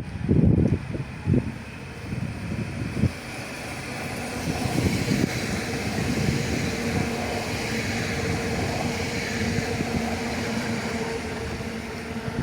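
A passenger train running past, a steady rolling noise with a held hum that builds from about four seconds in and eases slowly toward the end. Wind buffets the microphone in the first few seconds.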